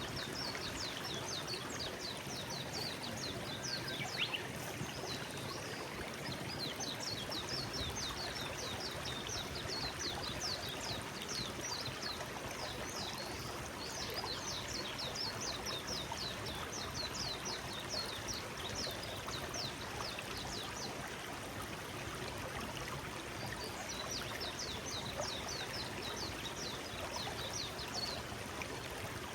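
A forest stream flowing steadily, with a bird singing long runs of rapid high notes over it that pause for a few seconds about two-thirds of the way through.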